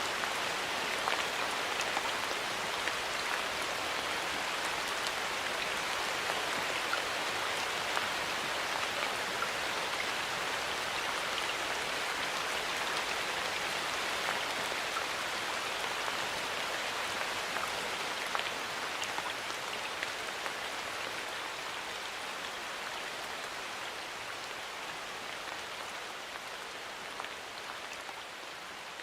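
Steady rain falling in a forest, an even hiss with scattered individual drop ticks, gradually fading out over the last ten seconds or so.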